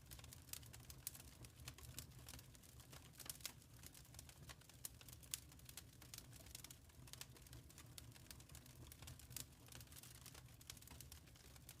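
Wood fire crackling faintly in a fireplace: a dense, irregular run of small snaps and pops over a low, steady rumble.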